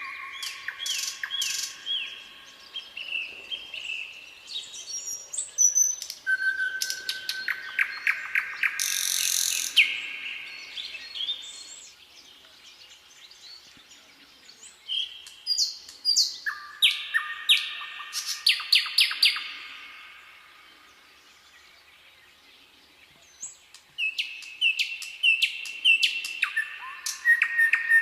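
Songbirds singing in short chirping, trilled phrases, one after another. Near the end of the second third they fall quiet for a few seconds, then start up again.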